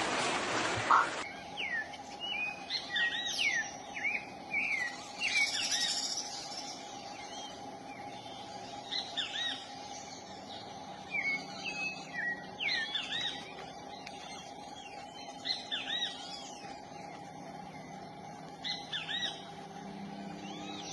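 Small birds chirping: many short calls, each bending up and down in pitch, coming in quick clusters over a faint steady hum. A loud rushing noise in the first second cuts off suddenly before the chirping starts.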